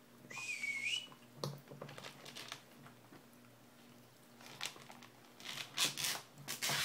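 Dog chewing on a chew toy, with crinkling and crackling in bursts that get busier near the end. There is a brief high squeak in the first second.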